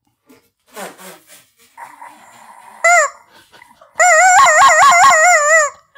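Rubber chicken squawking as air is forced through it: a short squawk about three seconds in, then a loud, long squawk from about four seconds in that wavers rapidly up and down in pitch. It sounds because the player holding it in his mouth has let air out.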